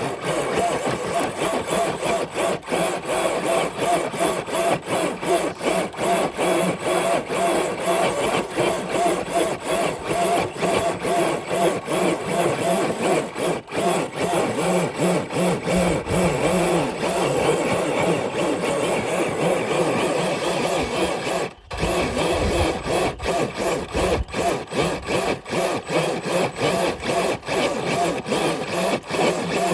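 Traxxas TRX4 RC crawler truck straining to pull a brick-loaded dead sled: electric motor and geared drivetrain whining steadily under load, with rapid clicking and scraping. It cuts out briefly about three-quarters of the way through, then resumes.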